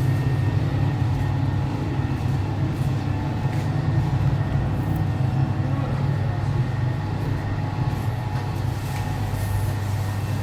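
A steady, low mechanical hum of a running engine or motor, with faint steady tones above it.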